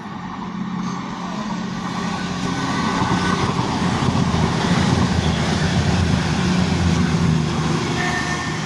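Class 221 Voyager diesel-electric multiple unit running past, its underfloor diesel engines humming steadily under rising wheel and rail noise. The noise builds to a peak over the middle of the pass and eases slightly near the end.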